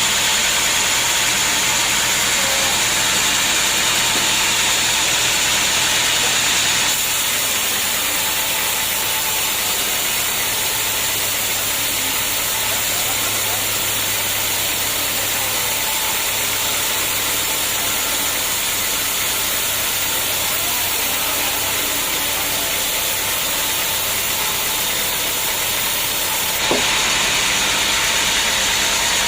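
Homemade engine-driven sawmill running steadily as it saws teak logs, a continuous mechanical drone with a hiss. The sound changes abruptly about seven seconds in and again near the end.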